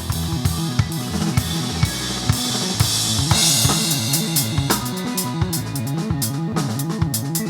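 A small band jamming live: a drum kit plays a busy groove of kick and snare hits under a moving bass line. A cymbal wash swells in and fades out about three seconds in.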